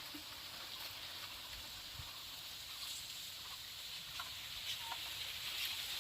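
Faint steady hiss of background noise, with a few soft, short chirps and light taps in the second half.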